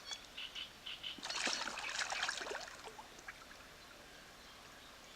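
Water splashing and trickling for about a second and a half, with a few short bird chirps before it.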